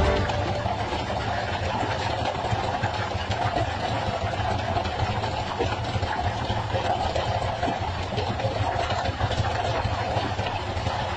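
A boat engine idling, a steady low hum that holds even throughout.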